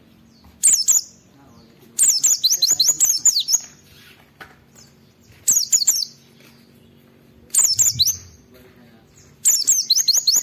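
White-eye (pleci) singing: five bursts of rapid, high, falling chirps, some short and some running about a second and a half, a bird in full song as if challenging a rival. A faint steady low hum lies underneath.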